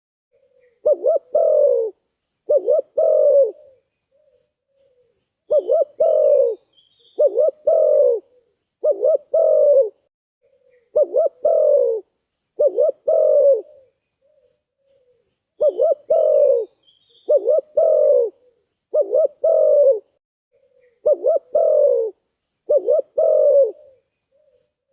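Spotted dove cooing: phrases of a quick double note followed by a longer coo, repeated about every one and a half seconds in bouts of four to six, with short pauses between bouts. Faint high chirps of small birds sound now and then.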